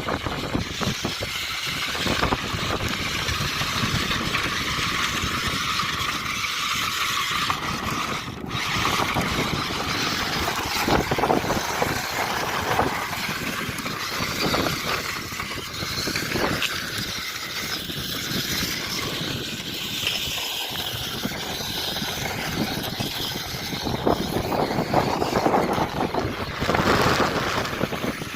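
Radio-controlled monster trucks driving, their small motors running and tyres churning over the ground in a continuous, shifting noise.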